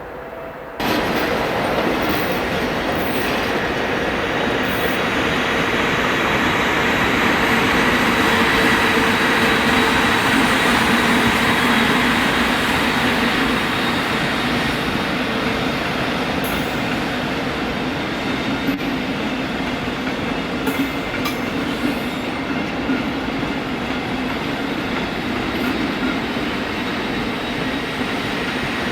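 Train running past on the tracks: a loud, steady rumble and hiss of wheels on rail with a faint steady whine. Several sharp clicks come near the middle, as wheels pass over rail joints.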